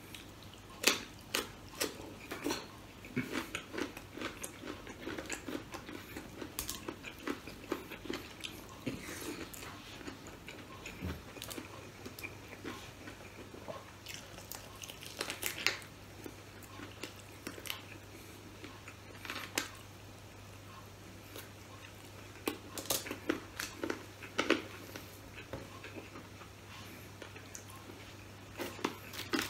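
Close-miked chewing and crunching of fried chicken and radish, eaten by hand, with many short irregular clicks and crackles and a few quieter pauses. A faint steady low hum comes in about a third of the way through.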